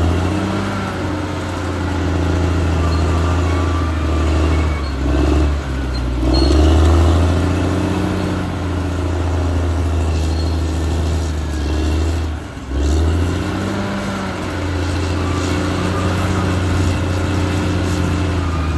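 Caterpillar D6R XL bulldozer's diesel engine running under load while it works soil. The engine note dips briefly about five seconds in and again about twelve seconds in, then picks back up.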